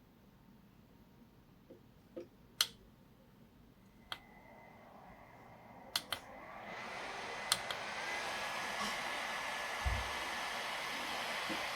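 Small portable fan switched on with button clicks, its motor spinning up with a rising whine and settling into a steady rush of air with a high motor whine.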